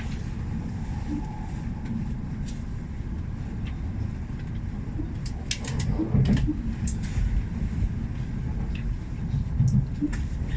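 Train station platform ambience: a steady low rumble of trains, with a scatter of sharp metallic clicks and clacks in the second half.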